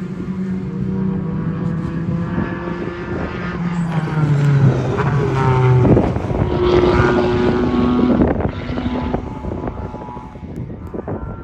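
A sports car's engine passing by on a race track: the note grows louder to a peak about six seconds in, drops in pitch as the car goes past, then fades away.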